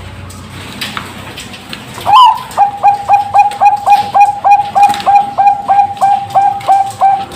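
Zebra dove (Bangkok perkutut) singing. About two seconds in it gives a loud opening note, then a fast, even run of short coos at one pitch, about three or four a second.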